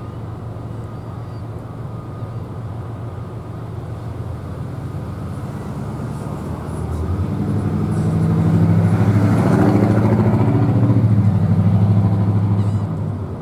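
A motor vehicle's engine drawing near and passing close by, building from about halfway through, loudest for a few seconds and then dropping away quickly near the end.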